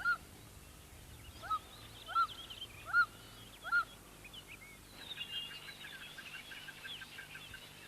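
A bird calling a repeated short arched note, five times over the first four seconds. From about five seconds in, a dense, high twittering chorus of small birds takes over.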